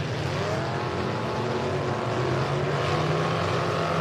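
Demolition derby truck engines running loud, with one engine revving up, rising in pitch during the first second, then holding steady.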